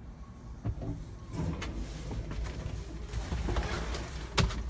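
Handling noise inside a truck cab: low rumble with scattered clicks, creaks and knocks, and one sharp knock near the end.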